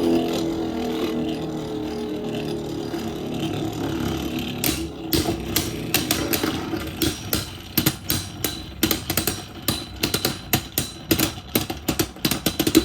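Two Beyblade Burst tops, Super Hyperion and King Helios, spinning in a plastic stadium: a steady whirring hum that sags slightly in pitch as they lose spin. From about five seconds in it turns into a growing run of quick clicks and clacks as the slowing tops strike each other and wobble, near the end of a battle decided by survivor finish.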